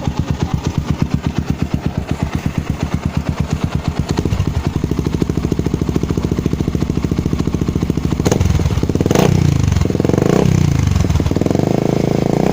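Old Yamaha Vixion's single-cylinder four-stroke engine through a hollowed-out aftermarket exhaust, idling with an even, deep pulse that quickens a little about four seconds in. In the last four seconds the throttle is blipped a few times, each rev rising and falling quickly.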